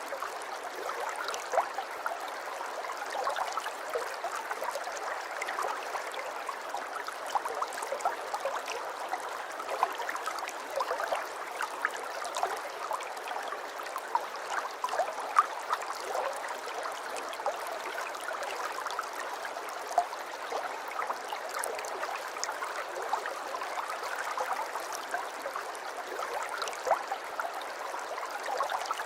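Water in an aquarium trickling and splashing steadily, with many small sharp splashes scattered through it.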